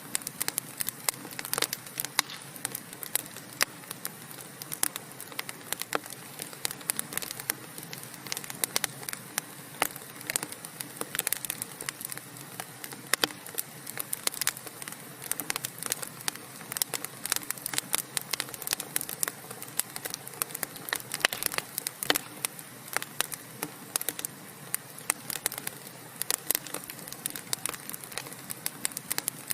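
Wood fire burning in a fireplace: dense, irregular crackles and pops from the logs over a steady hiss.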